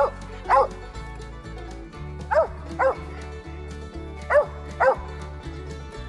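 A dog barking: six short barks in three pairs, each pair about half a second apart, the loudest sound, over background music with a steady beat.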